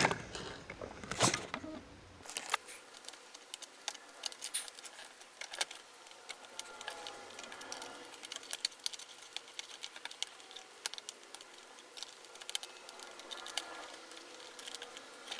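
Irregular small clicks, ticks and light scrapes of tweezers and fingers working at a laptop's plastic case and a tiny display backlight connector.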